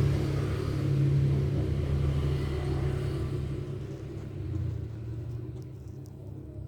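A low, steady rumble that slowly fades, with a brief swell about four and a half seconds in.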